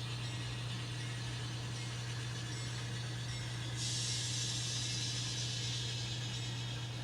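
N scale model diesel locomotive's onboard sound playing a steady low engine drone as it backs a train. A steady hiss joins about four seconds in and holds.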